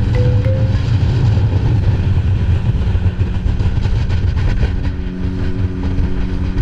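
A vehicle engine running with a heavy low rumble; a steady engine hum settles in about halfway through.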